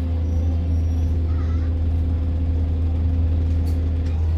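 A Stagecoach London bus (YX16OKV) heard from inside the passenger cabin, engine and drivetrain running with a steady low drone. A steady whine rides over the drone and drops out near the end.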